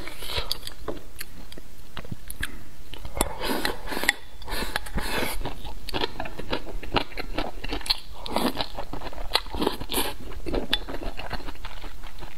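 A person chewing food close to a lapel microphone: a continuous run of wet smacking and clicking mouth sounds, several a second.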